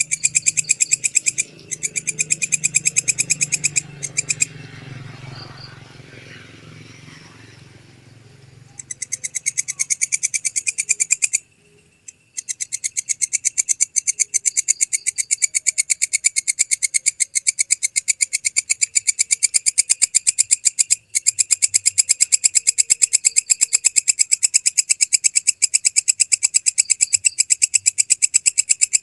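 Walang kecek katydid stridulating: a long, rapid train of evenly spaced, high rasping pulses. It breaks off for a few seconds about four seconds in and briefly about eleven seconds in, then runs on unbroken.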